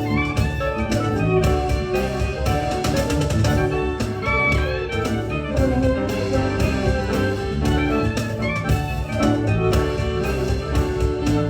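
Live ensemble music, several melodic instruments over a steady percussion beat.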